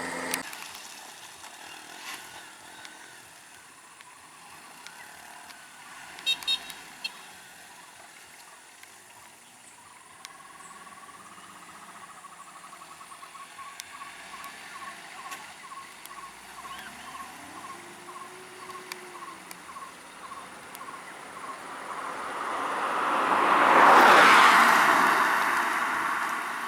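A road vehicle drives past, its noise swelling to a peak about two-thirds of the way through and then fading. Before it, a faint rapid pulsing at one pitch, two or three pulses a second, runs for several seconds over a quiet outdoor background.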